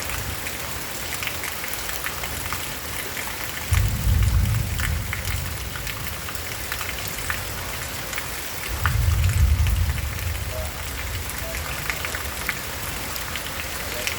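Steady rain falling, with scattered drop ticks. Two low rumbles stand out: the first starts suddenly about four seconds in, and the second comes about nine seconds in.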